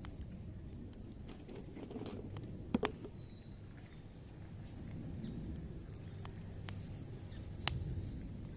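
Campfire of zelkova and willow branches crackling, with scattered sharp pops over a low steady rush, a close pair of louder pops about three seconds in.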